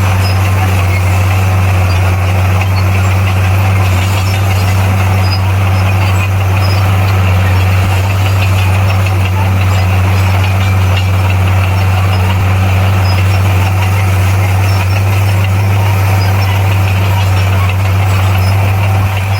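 Heavy diesel engine of earthmoving equipment running steadily at constant speed, a loud, even low drone that holds the same pitch throughout.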